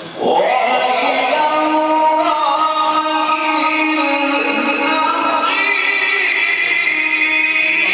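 A Quran reciter's melodic chanted recitation: one voice sustaining long, ornamented notes, entering strongly just after the start and moving to a new pitch about five and a half seconds in.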